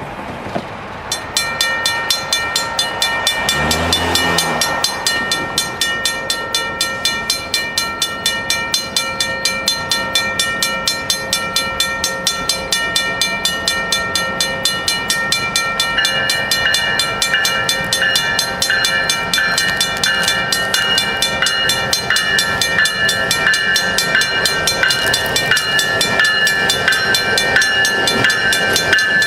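Railroad crossing bells start ringing about a second in, in a fast even rhythm. A second bell joins about halfway through. The crossing signals are activated for an approaching train.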